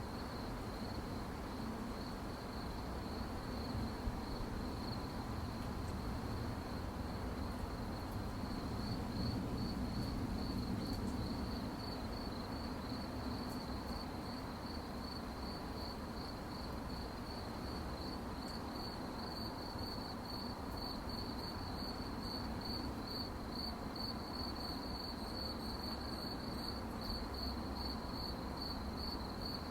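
Crickets chirping in a steady, evenly pulsed high-pitched trill, with a second, fainter and higher-pitched chirping joining about two-thirds of the way in, over a low background rumble.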